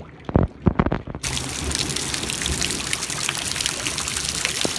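Heavy rain with water pouring and splashing: a dense, even hiss full of small drips and splashes. It sets in about a second in, after a muffled stretch of a few low thumps.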